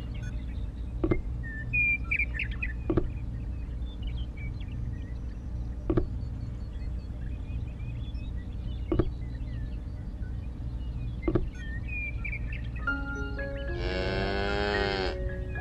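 Soft background music with birds chirping and a few sharp knocks a few seconds apart, then a cow mooing once, long and loud, near the end.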